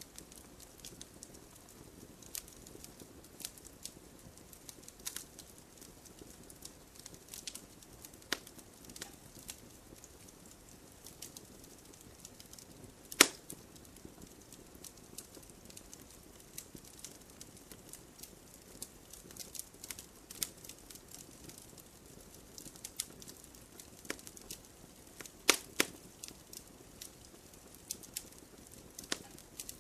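Campfire burning: wood crackling with irregular sharp pops over a faint steady hiss. The loudest pops come about halfway through and as a quick pair a few seconds before the end.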